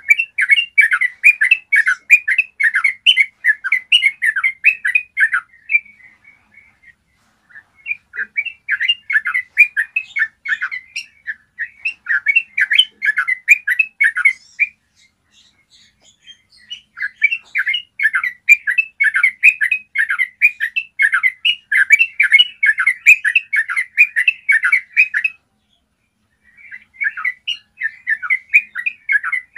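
Yellow-vented bulbul singing its long, rapid chattering song, delivered in four bouts of several seconds each with short pauses between them.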